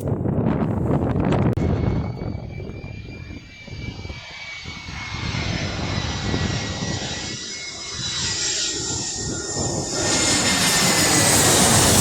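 Jet airliner engines flying past: a loud rumble with a high whine that slowly falls in pitch, and a rushing hiss that swells about ten seconds in.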